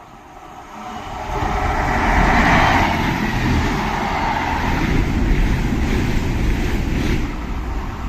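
A train passing through the station: rumble and rushing noise that build up from about a second in and then run on steadily.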